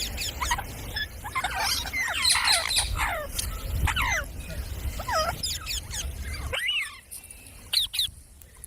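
Pet parrots chirping and squawking in quick short calls that sweep up and down in pitch. A low rumble underneath cuts off suddenly about two-thirds of the way in, and a few more calls follow.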